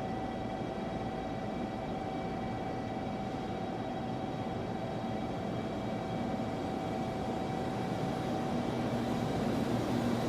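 100 series Shinkansen train's steady mechanical hum, with a high steady whine over it, growing slowly louder toward the end as a lower tone joins in.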